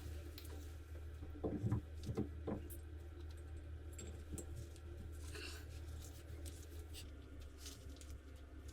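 Light clicks, taps and rubbing from small parts being handled, over a steady low hum. There is a cluster of taps about one and a half to two and a half seconds in, and a brief soft hiss around five seconds.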